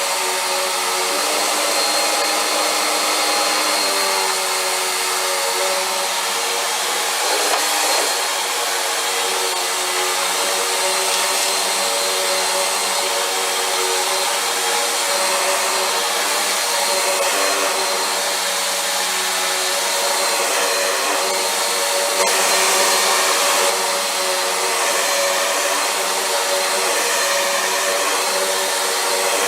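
Vacuum cleaner running steadily, a whining motor over a rush of air, its pitch shifting slightly now and then.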